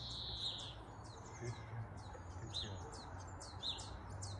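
Songbirds singing: many quick, high chirps and short falling notes, with one held high whistle in the first second.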